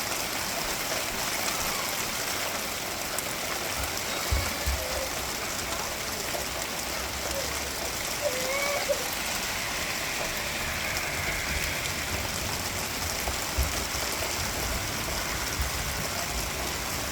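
Steady rain falling, an even hiss that holds throughout, with a few faint short rising-and-falling calls over it and occasional brief low thuds.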